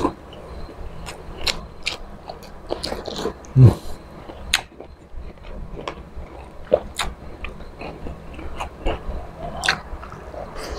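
Close-up eating sounds of a man chewing squid adobo, with many short wet clicks from his mouth and fingers in the food. One louder low thump comes about three and a half seconds in.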